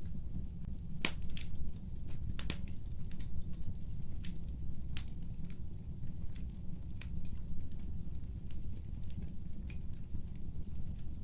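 Fireplace fire crackling: scattered sharp pops and snaps over a steady low rumble of the flames, the loudest pops about a second and two and a half seconds in.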